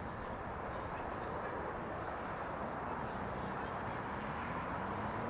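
Road traffic running steadily, growing a little louder as a vehicle's engine hum comes in about halfway through.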